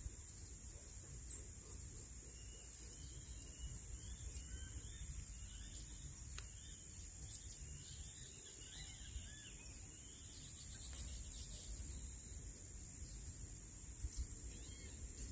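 A songbird singing a run of short, quick chirping notes, thickest in the first half, over a steady high-pitched drone and a low outdoor rumble.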